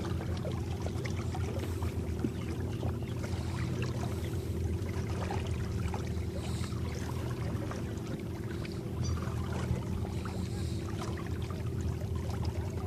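Small electric boat motor running with a steady hum, and water splashing and trickling along the hull as the boat moves.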